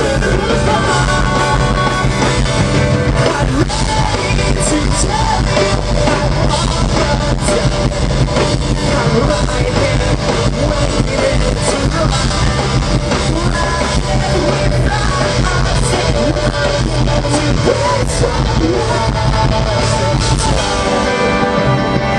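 Live rock band playing loudly, with electric guitars, drums with crashing cymbals, bass, and a singer's voice over the top.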